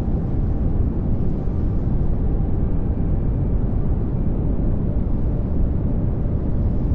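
Steady pink noise: an even, unchanging hiss weighted toward the low end, with no rhythm or breaks.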